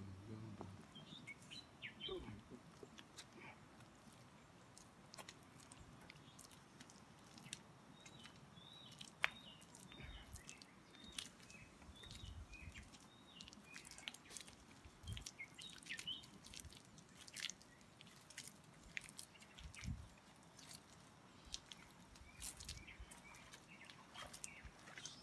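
Faint, repeated short chirps of small birds, with scattered clicks and a few low knocks.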